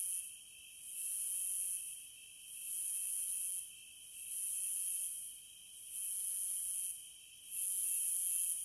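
Chorus of 17-year periodical cicadas, swelling and fading in regular waves about once every second and a half over a steady high drone.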